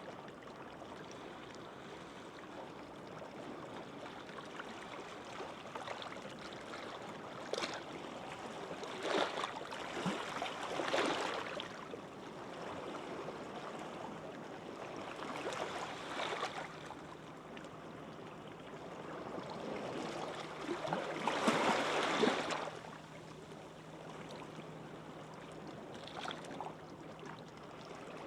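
Gentle sea waves washing onto a beach: a steady hiss of surf that swells into louder breaking waves several times, the loudest a little past the middle.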